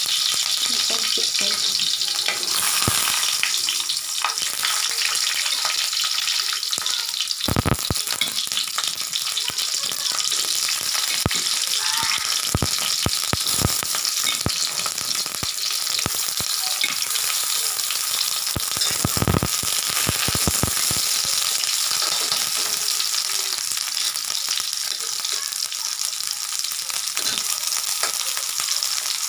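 Slices of eggplant frying in hot oil in a pan, a steady loud sizzle full of small crackles and pops. Two dull knocks stand out, one about a quarter of the way in and one past the middle.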